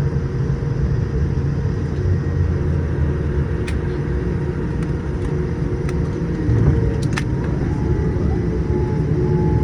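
Cabin noise of a Boeing 787-8 rolling on the ground just after landing: a steady low rumble with a hiss, and a few faint clicks in the middle.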